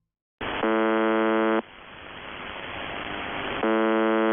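UVB-76 shortwave station ('the Buzzer') received over the radio: a harsh buzzing tone about a second long sounds twice, about three seconds apart, over steady radio hiss.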